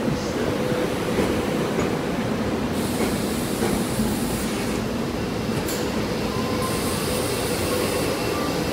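A train moving along the track: a steady running noise of wheels on rail, with a faint steady tone under it and faint higher tones coming in near the end.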